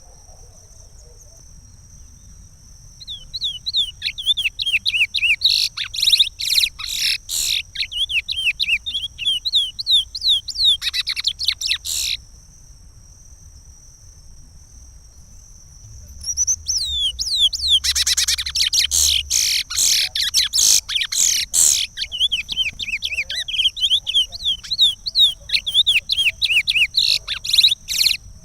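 Curió (chestnut-bellied seed finch) singing its Pará regional song: two long phrases of quick, sliding whistled notes with a pause of a few seconds between them.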